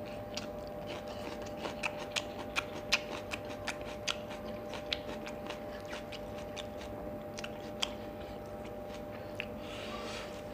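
Close-miked chewing of a mouthful of food, with sharp, irregular wet clicks and crunches, thickest in the first eight seconds, over a steady faint hum.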